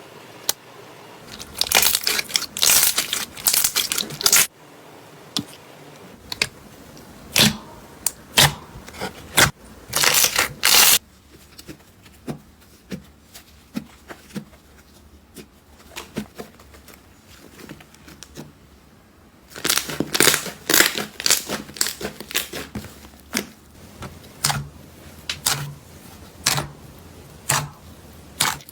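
Slime being squeezed and worked by hand, making runs of crackling pops and clicks. There is a quieter stretch of scattered clicks in the middle.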